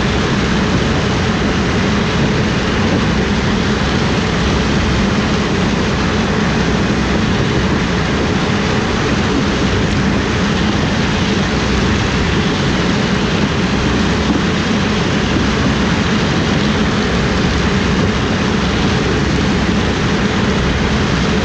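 Heavy harvest machinery running at a steady, loud level, with a constant low rumble and no change in speed.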